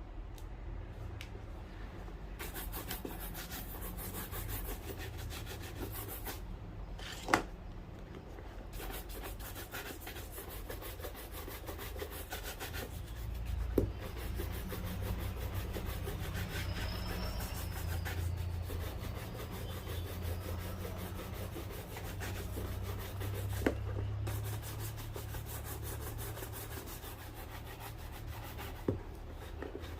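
A shoe being rubbed with fast, continuous back-and-forth strokes as it is cleaned and polished, with four sharp knocks spread through.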